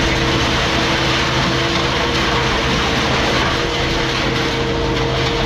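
Heavy machinery running steadily: a low engine drone under loud, even noise, with a steady two-note whine.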